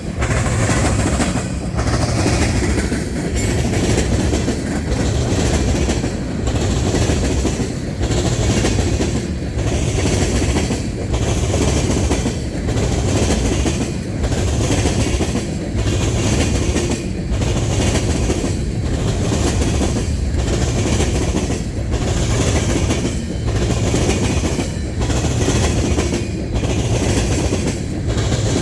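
Long freight train rolling past, its cars' wheels clacking over the rail joints. The clacking comes in a regular rhythm, repeating about every second and a half as each car goes by.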